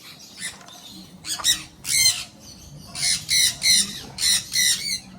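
Parrot squawks: a few harsh calls, then from about three seconds in a quick run of them, about three a second.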